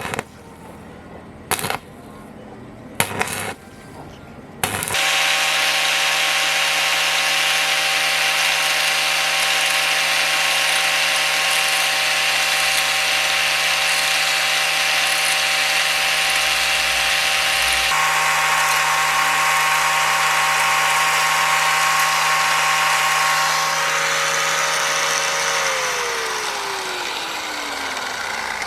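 Electric power tool started after a few short clicks, running steadily for about twenty seconds with a hiss of work over a steady whine, then winding down with its pitch falling near the end.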